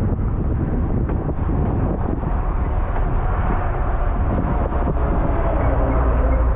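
Steady rumble of a moving vehicle with wind noise on the microphone; a faint whine comes in about halfway through.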